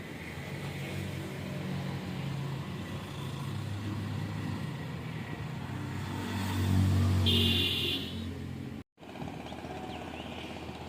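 A motor vehicle's engine running nearby, growing louder to its loudest about seven seconds in, then the sound cuts out abruptly for a moment.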